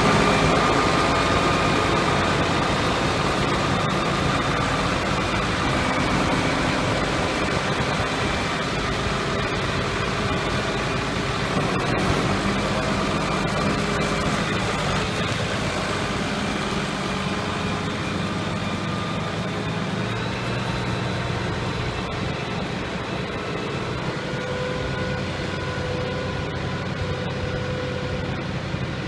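Ford 3930 tractor's three-cylinder diesel engine running steadily at idle, growing slightly quieter over the stretch.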